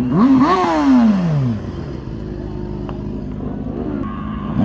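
A vehicle engine revs up over the first half second, then drops steadily in pitch for about a second. A lower, steady engine sound follows, and a fresh rev starts at the very end.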